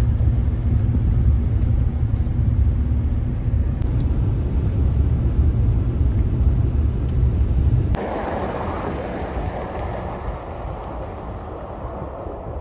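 Low, steady rumble of a vehicle in motion. It cuts off suddenly about eight seconds in, giving way to a softer hiss that fades.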